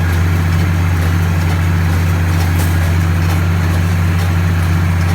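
Tractor engine running steadily, a loud, even low drone.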